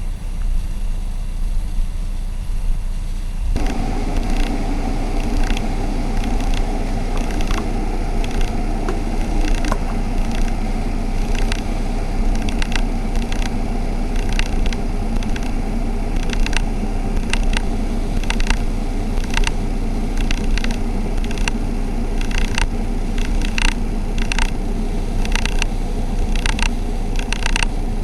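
Electric kettle heating water toward the boil: a low steady hum, then about three and a half seconds in the noise of the heating water swells in, with crackling ticks that grow more frequent.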